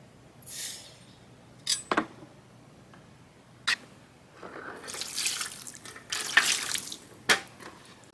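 Tap water running and splashing in a sink in short spells, the longest near the middle, with several sharp clinks and knocks of metal or dishes being handled while washing up.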